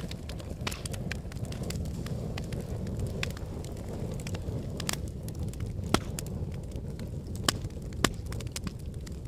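Logs burning in a fireplace: a steady low rumble of the flames with frequent sharp crackles and pops of the burning wood, three of them louder, in the second half.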